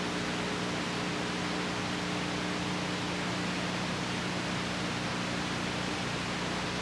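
Steady hiss with a low electrical hum under it, unchanging throughout: the noise of an old videotape transfer, with no programme sound.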